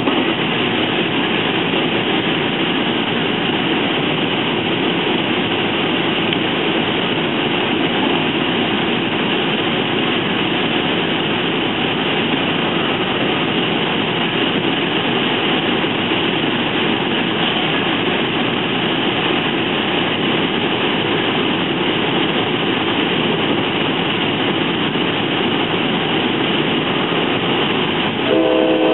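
Steady rolling noise of an NJ Transit multilevel coach running at speed, heard from inside. About a second before the end, a K5LA five-chime train horn chord begins sounding.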